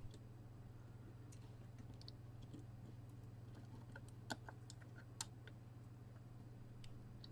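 Near silence: a steady low hum with scattered faint small clicks, two sharper clicks about four and five seconds in.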